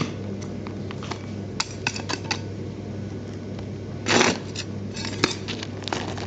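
Scattered light clicks and taps over a steady low hum, with a short louder rustle about four seconds in.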